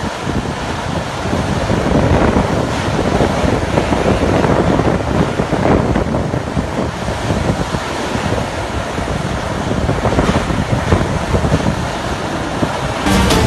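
Loud storm wind of Cyclone Fani gusting and buffeting the microphone, a dense rushing noise that swells and eases irregularly. Music begins right at the very end.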